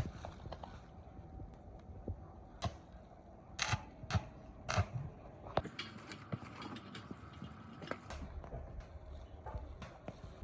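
Irregular sharp clicks and light knocks, about half a dozen louder ones between two and six seconds in, with a few fainter ticks around them, as of small hard objects being handled.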